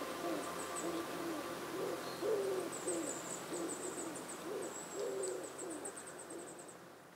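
Birds hooting: about ten low, curving hoots, some overlapping, with faint high chirping above them, fading out near the end.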